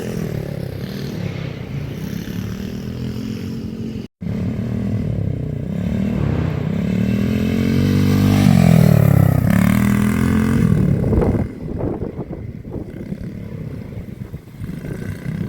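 X Pro X12 110cc dirt bike's small four-stroke engine running, its pitch rising and falling with the throttle. It revs up to its loudest a little past halfway, then drops away, leaving scattered clattering knocks.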